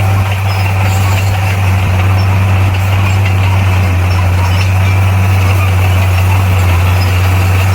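Bulldozer's diesel engine running loud and steady, with a constant low hum and no change in pitch.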